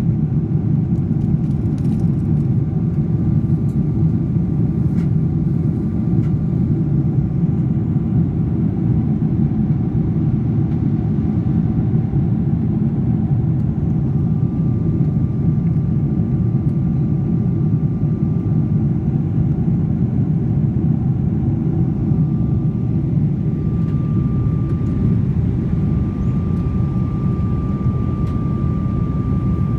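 Airplane cabin noise in flight: a steady, even low rumble of engines and airflow. A faint high steady whine sits over it, growing more noticeable through the second half.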